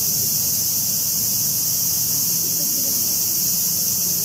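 A steady, high-pitched chorus of summer insects buzzing without a break.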